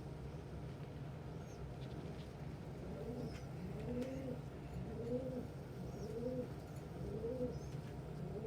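Domestic pigeon cooing in a loft: a run of short, arched low coos about one a second, starting about three seconds in, with a few faint high peeps above them.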